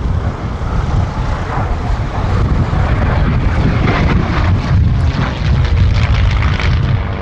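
Merlin V-12 engine of a P-51D Mustang running in flight, a steady low drone with no break.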